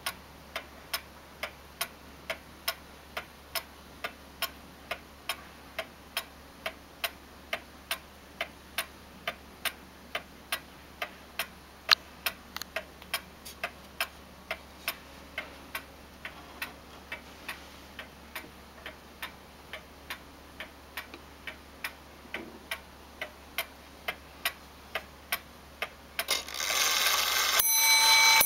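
Antique eight-day Victorian walnut shelf clock ticking steadily, about two ticks a second. Near the end its striking train starts with a short whir and the first chime strike rings out.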